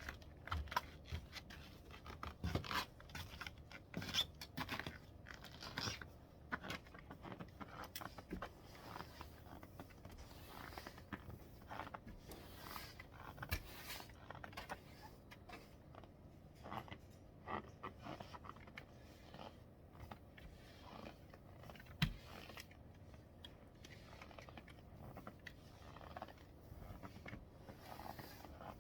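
Irregular scraping and crunching, short sharp sounds coming several times a second with a louder knock a little past the middle.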